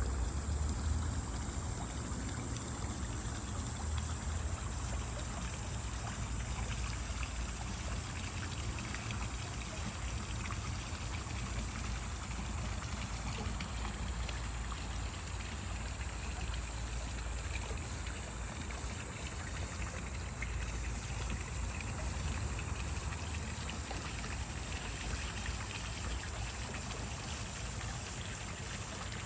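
Water running steadily in a backyard pool's water feature, a continuous trickling and splashing with a low rumble underneath.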